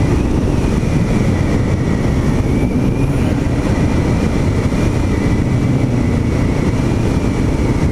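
Honda XR650L's air-cooled single-cylinder four-stroke engine running at a steady cruise, over a constant rush of riding noise.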